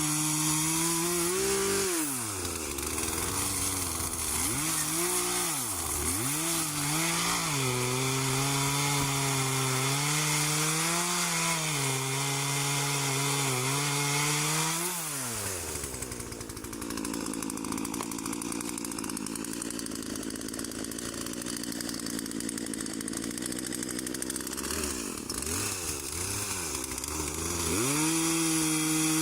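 Two-stroke chainsaw running hard while cutting through a dead, rotten tree, its engine pitch wavering and dipping. About halfway it drops to a lower, steadier pitch for around twelve seconds, then revs back up near the end.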